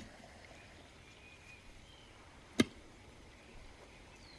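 A single sharp knock about two and a half seconds in, as a building block is set down on a stack of blocks, over quiet outdoor ambience with faint bird chirps.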